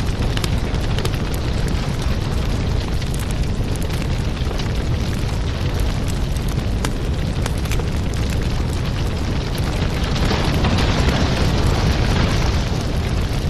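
Wood fire crackling in a fireplace: a steady low rumble and hiss with frequent sharp pops and crackles. The hiss grows louder for a couple of seconds about ten seconds in.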